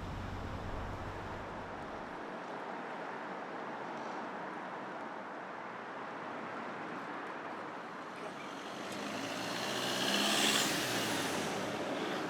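Road traffic noise, with a vehicle swelling past about ten seconds in.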